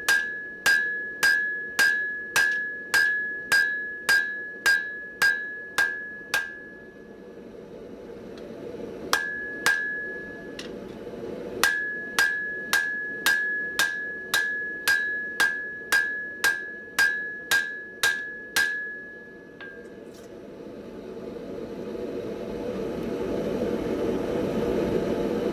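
Hand hammer striking hot mild steel on an anvil at about one and a half blows a second, each blow ringing with a clear high tone. The hammering breaks off once with a single blow in the gap, resumes, then stops about 19 seconds in, after which a steady rushing noise builds.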